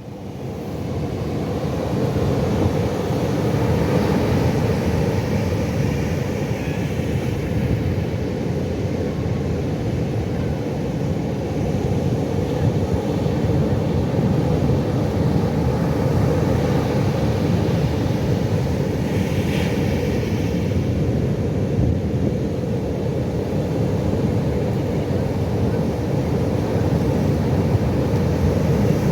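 Steady low roar of Pacific Ocean surf, fading in over the first second or two.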